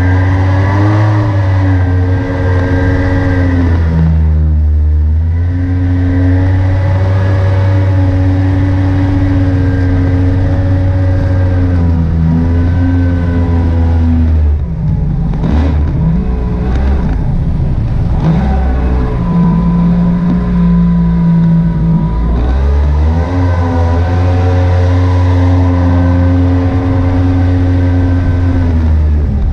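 Mini jet boat's Yamaha 1100 two-stroke engine running under way, its revs easing off and picking up again several times, with a rougher, noisier stretch about halfway through.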